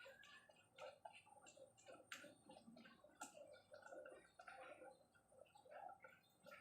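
Faint, irregular clicking and ticking of a torque wrench's ratchet and metal tools as engine bolts are tightened to torque, with a few sharper clicks.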